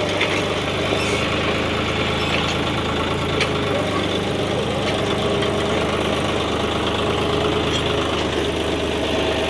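John Deere 5310 tractor's diesel engine running steadily, with a few faint clicks.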